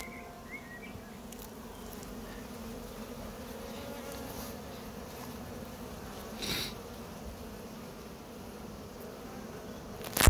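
Honey bees from an open hive humming steadily, a continuous buzz of many wings. A short rustle about six and a half seconds in and a sharp knock near the end, the loudest moment.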